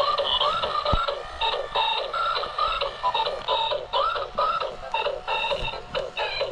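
Tinny electronic melody playing from the speaker of a battery-powered transforming robot-plane toy, with a couple of soft knocks.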